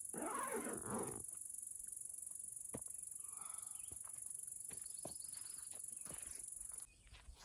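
Steady high-pitched insect chorus in the woods, with a few short bird calls and scattered clicks. A loud rustling noise fills the first second.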